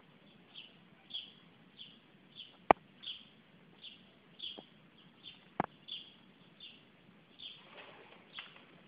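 A small bird chirping over and over, one short high chirp roughly every two-thirds of a second. Two sharp clicks, about a third of the way in and again past halfway, are the loudest sounds.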